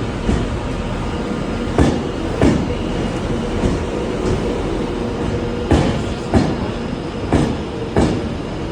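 Train running on rails over a steady rumble, its wheels knocking over rail joints in pairs of sharp clacks about two-thirds of a second apart, three times.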